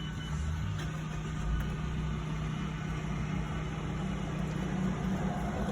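2022 Mazda CX-3's engine started by push button: a short double beep, then the engine catches and settles into a steady idle.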